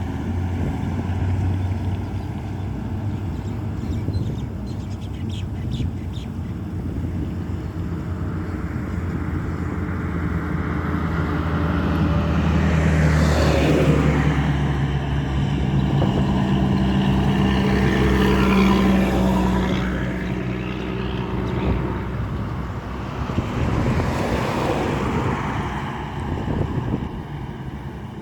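Diesel engine of a heavily loaded Hino 8C truck running on the road, its engine note rising and growing louder as it passes close about halfway through, with a second, smaller swell near the end.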